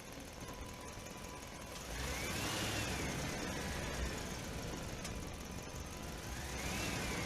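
A motor running over a steady low rumble, its whine rising quickly in pitch and then falling slowly, about two seconds in and again near the end, like a vehicle revving up and easing off.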